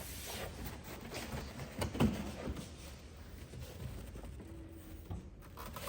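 Small handling noises as parts are fitted by hand: scattered clicks and rustles, with one sharper knock about two seconds in.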